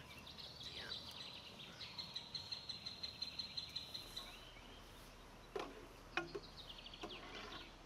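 A bird singing a fast trill of high repeated notes, about five a second, then a second, slightly falling trill near the end. Two sharp knocks come between the trills, the second the loudest sound.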